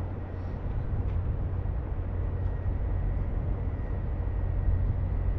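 Steady low rumble of a train running, with a faint high whine above it.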